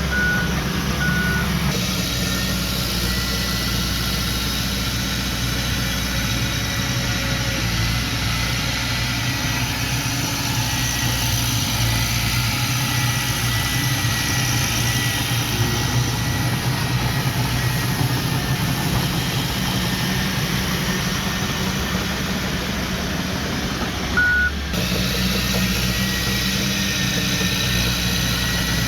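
Diesel engines of heavy earthmoving machinery running steadily, with two short back-up alarm beeps in the first second or so and one more about 24 seconds in.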